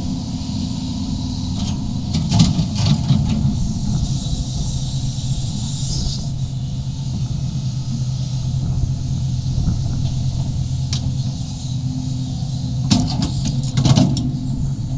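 Sumitomo SH350-HD-5 35-ton excavator's diesel engine running steadily while digging. A few sharp knocks and scrapes come about two seconds in and again near the end.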